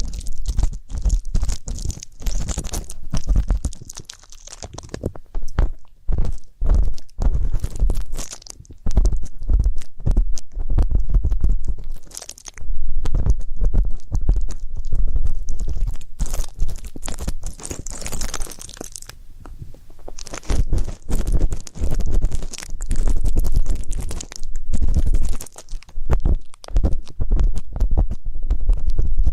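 Ear pick scraping and rubbing right against a microphone's ear: close, irregular scratching strokes with deep low thumps, in clusters with brief pauses.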